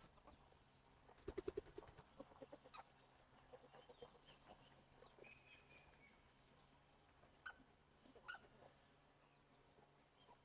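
Chickens clucking faintly: a quick run of clucks about a second in, then scattered soft chirps and a couple of small clicks.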